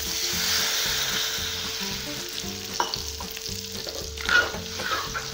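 Water poured into hot fried masala in a metal kadai sizzles with a hiss that fades over the first couple of seconds. A metal spatula then stirs and scrapes against the pan, with a few clicks.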